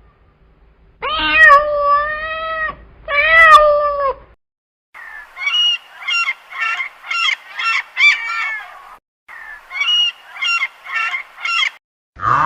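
A cat meowing twice, each meow about a second long and dropping in pitch at the end. Then a run of short, rapid waterfowl calls, about two a second, with a brief pause about nine seconds in.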